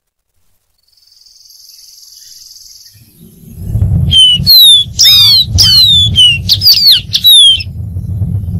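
Dark-throated seedeater singing: a quick run of about eight loud, clear whistled notes, most sliding down in pitch, lasting some three and a half seconds. A low rumble runs under the song, and a faint high hiss comes before it.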